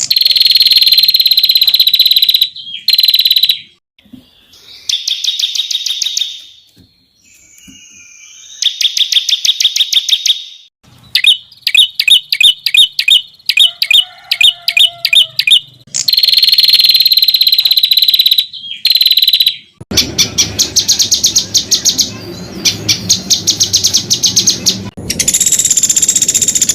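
Songbird song spliced from several recordings: long, high, buzzy trills alternating with rapid runs of sharp, repeated 'tembakan' notes at about ten a second, plus a brief low whistle near the middle.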